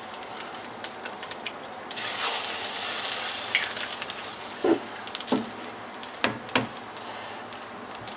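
Rice and sausage frying in a hot pan, sizzling steadily with scattered small pops and clicks. About two seconds in, the sizzle swells for a second or so as water is sprinkled onto the rice by hand to moisten it.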